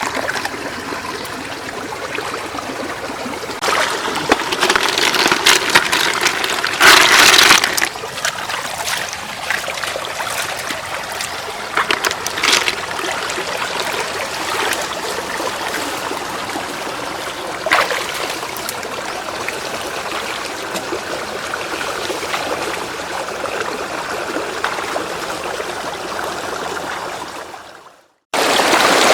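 Shallow floodwater running steadily, with louder splashing and sloshing about four to eight seconds in and brief splashes later. It fades out to silence shortly before the end.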